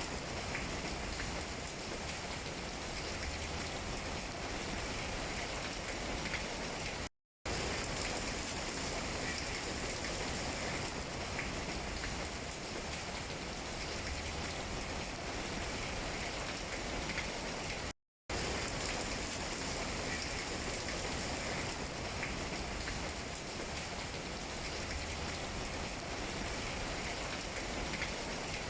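Steady rain falling on tree leaves, an even hiss of many drops. The sound cuts out to silence for a fraction of a second twice, about seven and eighteen seconds in.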